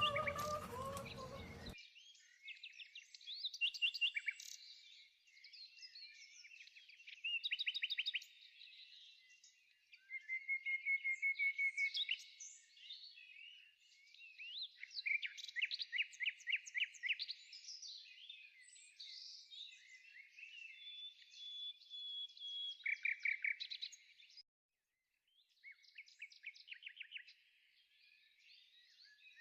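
Songbirds chirping and trilling, with fast runs of short repeated notes; the birdsong drops out completely for under a second near the end.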